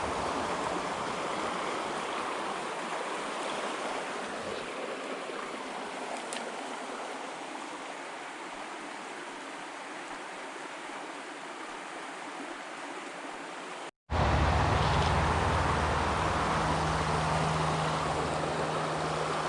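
Small creek water running steadily over rocks, a continuous rushing noise. About fourteen seconds in it cuts out for an instant and comes back louder, with a low hum underneath.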